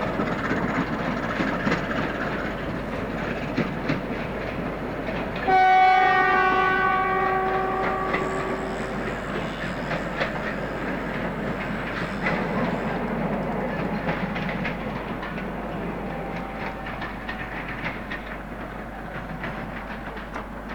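Train running with wheel clicks over the rail joints. About five seconds in, its horn sounds one steady note for about three seconds. The train noise then slowly fades.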